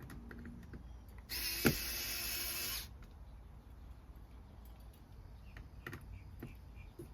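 Cordless drill driving a screw in one steady run of about a second and a half, starting about a second in, with a sharp click partway through. Small handling clicks come before and after it.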